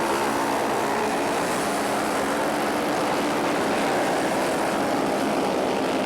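A pack of flat-track racing motorcycles running laps together, several engine notes overlapping in a steady drone.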